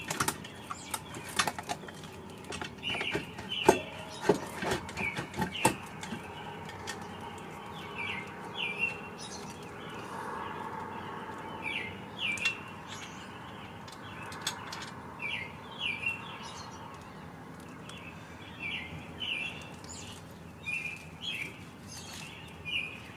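Metal tools clinking and knocking on a BMW M54B30 engine as work starts on removing the cylinder head; the sharpest knocks come in the first few seconds. Short high chirps repeat throughout.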